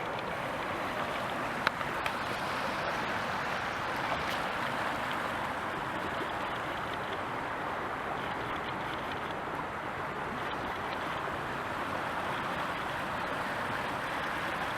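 Steady rushing of flowing water, with one brief click about a second and a half in.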